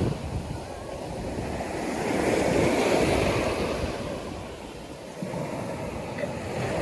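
Waves breaking on a sandy beach, the surf swelling to its loudest a couple of seconds in, easing off and building again, with wind buffeting the microphone.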